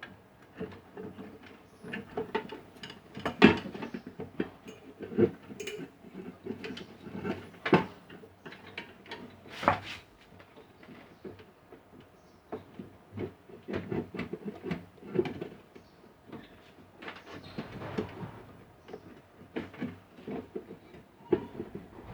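Hand work on small metal parts and tools: irregular clicks, knocks and scraping, with a few sharper knocks standing out.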